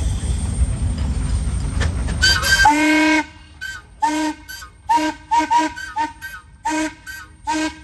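Steam traction engine's whistle, sounding several tones at once: one blast of about half a second, then a rapid string of short toots. A low rumble fills the first few seconds, before the whistle starts.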